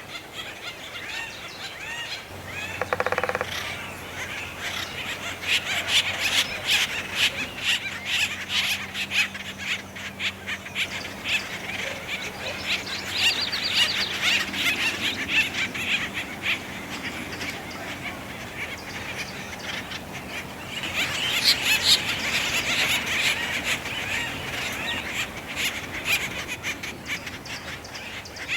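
A group of acorn woodpeckers calling raucously, many short calls overlapping in a continuous commotion that swells in several louder bouts, the loudest about three quarters of the way through. A faint steady low hum runs underneath.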